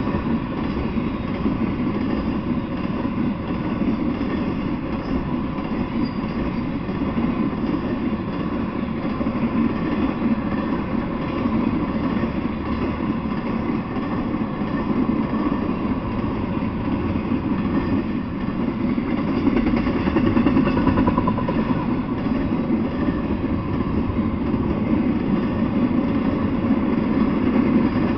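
Intermodal freight train rolling past: a steady, loud rumble of steel wheels on the rails from the loaded well cars, swelling slightly about two-thirds of the way through.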